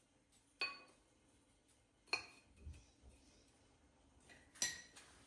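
Dishes clinking three times, each strike sharp and ringing briefly, spaced about two seconds apart.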